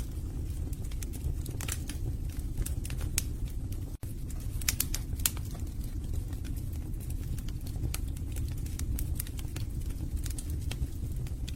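Wood fire burning in a fireplace: irregular sharp crackles and pops of the logs over a steady low rumble of the flames, with a momentary dropout about four seconds in.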